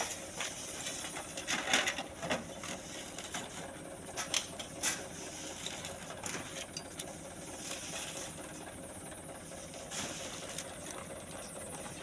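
Scattered short gritty scrapes and knocks of sand and stones being dug and shovelled, over a steady outdoor background.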